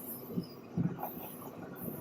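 Faint rumble of a train on the rails, with a few irregular low thuds.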